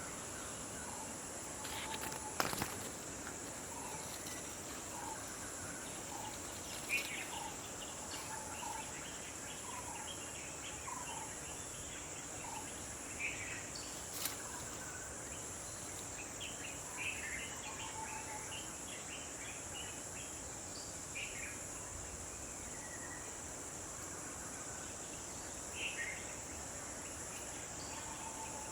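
Steady high-pitched drone of insects in tropical forest, with short bird chirps scattered throughout and two sharp clicks, one a couple of seconds in and one about halfway.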